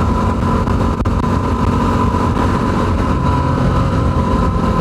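Yamaha WR250R's 250 cc single-cylinder four-stroke engine running at a steady, even note while riding.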